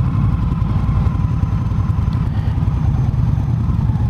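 Indian motorcycle engine running steadily at low speed, a low, even rumble.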